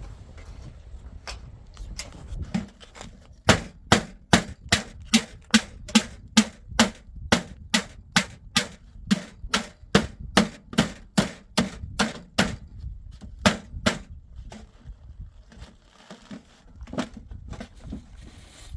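Hammer blows on wood, a steady run of about twenty strikes at roughly two a second, starting a few seconds in and stopping about two-thirds of the way through: nails being driven during the door repair.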